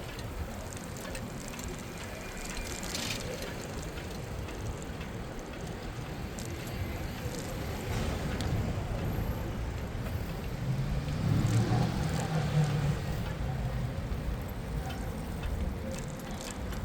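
City street traffic heard from a moving bicycle: steady low wind and road noise, with a motor vehicle passing close by, loudest about two-thirds of the way through.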